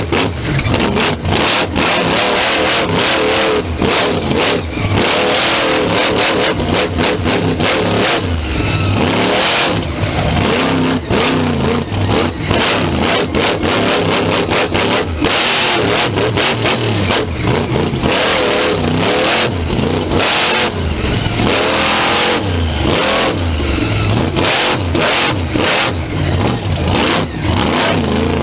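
Monster truck engine revving hard again and again, its pitch rising and falling, loud and crackling throughout.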